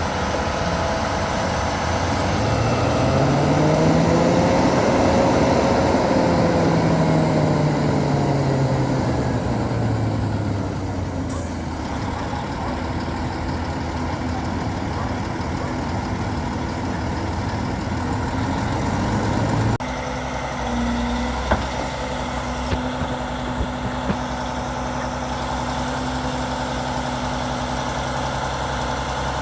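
Albach Diamant 2000 wood chipper's heavy engine running, its pitch rising then falling over several seconds before settling, then running steadily with a few light clicks.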